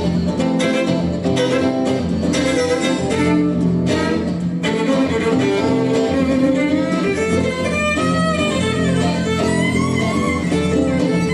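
A guitar and a violin playing an instrumental passage. Guitar strumming is prominent in the first half. From about the middle, the violin's melody, with sliding, wavering notes, comes to the front over the guitar.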